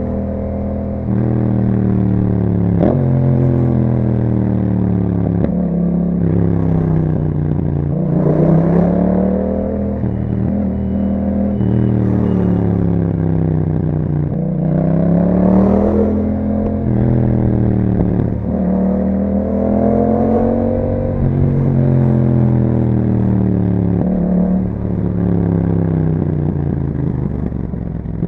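Yamaha MT-07's 689 cc parallel-twin engine through an Akrapovic exhaust while riding. The engine note climbs with the revs, drops sharply at gear changes and falls away more slowly when easing off, several times over.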